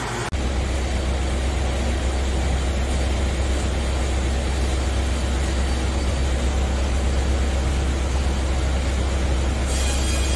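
Wood-fired hot-air heater's blower running: a steady low hum with an even rush of air, starting abruptly just after the beginning.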